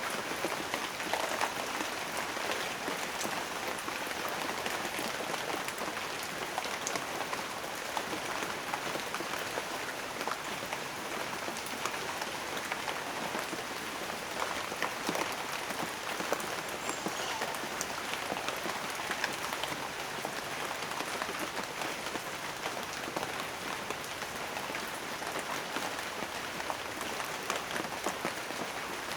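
Steady rain, a dense patter of drops hitting a surface without letup.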